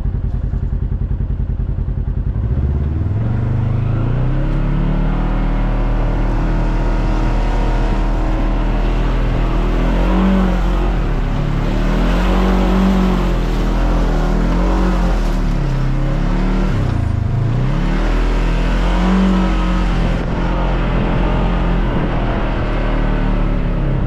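Off-road vehicle engine revving hard. Its pitch climbs over the first few seconds, then repeatedly surges and drops as it is worked, with one brief deep drop about two-thirds of the way through.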